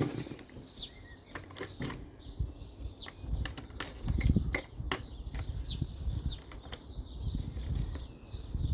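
A series of sharp clicks and light taps of plastic parts and small screws being handled while the air box is fitted back onto a two-stroke leaf blower, with low knocks and rubbing around the middle.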